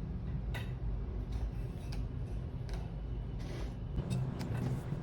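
Irregular light clicks and taps, several close together near the end, over a steady low rumble.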